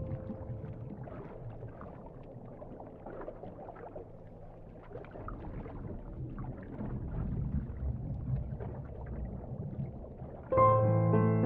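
Ocean water sound: a low, rushing wash that swells and ebbs. Piano music comes in suddenly near the end.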